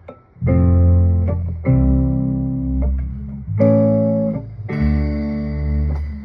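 Guitar chords struck one at a time and left to ring, four chords in a slow rhythm, the opening of a song before the vocal.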